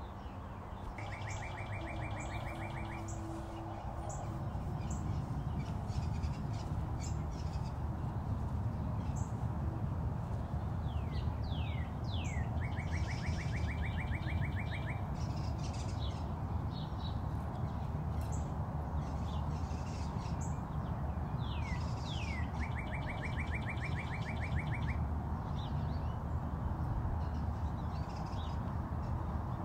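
A bird singing three times, each a rapid, even trill lasting about two seconds, the later two led in by a couple of quick falling notes, with short chirps in between. A steady low rumble runs underneath and grows louder about four seconds in.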